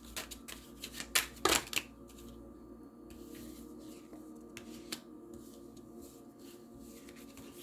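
Tarot deck being shuffled and handled: a few sharp card flicks in the first two seconds, then quieter card handling over a faint steady hum.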